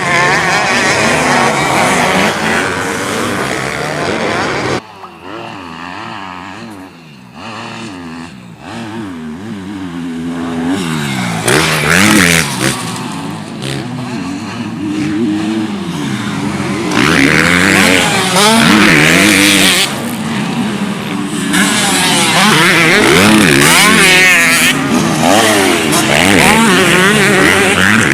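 Several motocross bikes racing, their engines revving up and dropping over and over, several at once. The sound falls away for a few seconds about five seconds in, then builds again as bikes come close.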